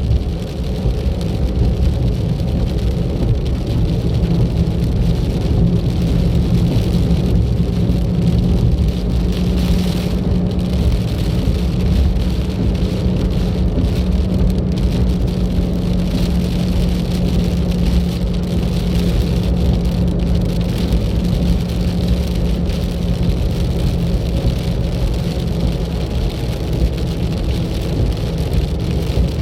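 A car driving along a road, its engine and tyre noise running steadily with a low rumble and a held hum.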